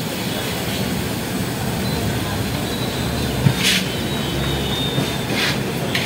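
Slow-moving passenger train's wheels rumbling steadily on the rails, heard from inside a coach. There is a single knock about three and a half seconds in and two short hisses.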